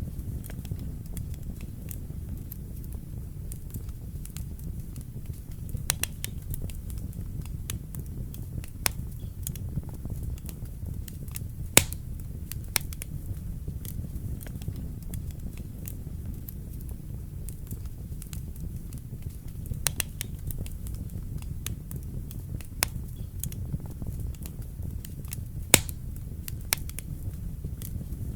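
Wood fire burning in a fireplace: a steady low rumble of the flames with irregular sharp crackles and pops, two of them louder, about twelve seconds in and near the end.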